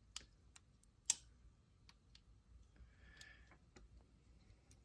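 Scattered light clicks and taps of small parts being handled and set in place, the sharpest about a second in, with a brief soft scrape a little past the middle.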